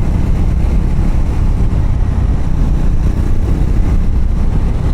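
Triumph Scrambler's parallel-twin engine running steadily on the move, under a heavy, uneven wind rumble on the microphone.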